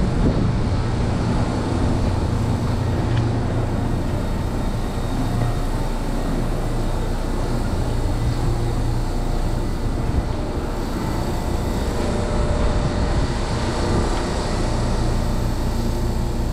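Tobu Tojo Line electric train running: a steady low rumble with faint motor tones above it.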